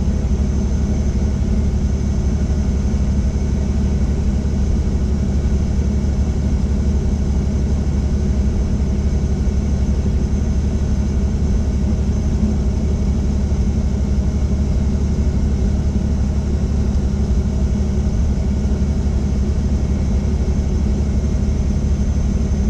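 Helicopter running with a steady, loud low drone from its rotor and engine, and a thin high whine above it.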